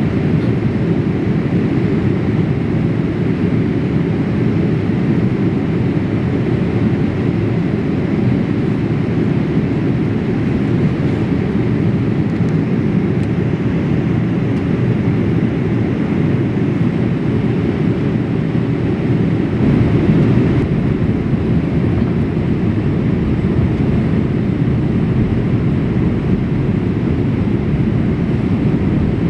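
Steady low rumble of a Boeing 787-8 cabin in flight, the engines and airflow heard from inside the passenger cabin, swelling slightly about two-thirds of the way through.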